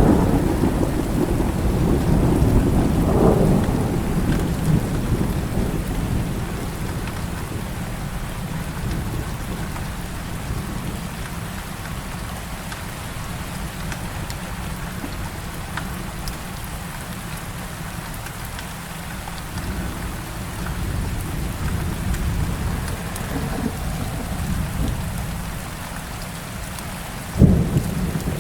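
Heavy rain falling steadily during a thunderstorm: a thunder rumble dies away over the first few seconds, and a sharp thunderclap breaks near the end.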